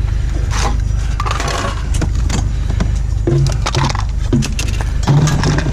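Irregular clatter and knocks of hard objects being moved about in a pile of discarded junk, over a steady low rumble.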